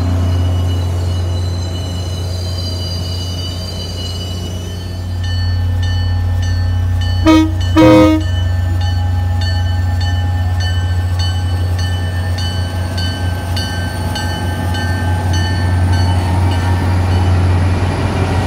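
Commuter train passing, pushed by an MBTA GP40MC diesel locomotive whose engine drones throughout. A bell rings about twice a second, and about seven seconds in the horn sounds two short blasts, the signal that the train is proceeding.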